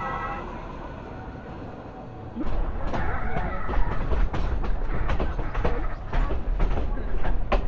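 Sóller railway train rolling past close by. About two and a half seconds in, a loud rumble starts, with rapid irregular clicking of the wheels over the rails.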